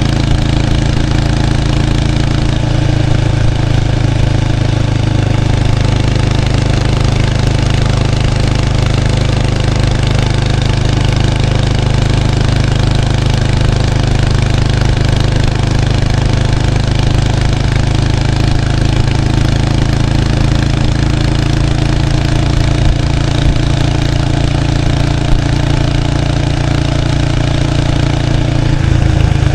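1993 Kawasaki Estrella 250's air-cooled single-cylinder four-stroke engine running through its stock muffler while riding, heard close to the exhaust. The engine holds a steady pace, with small changes in pitch near the start and again near the end.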